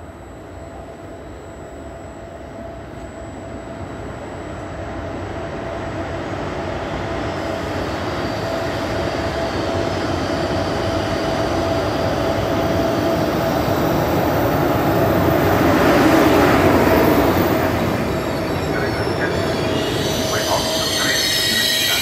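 Electric locomotive-hauled passenger train approaching and pulling in alongside the platform, growing steadily louder with a steady whine. High-pitched wheel and brake squeal sets in near the end as the coaches roll past and the train slows.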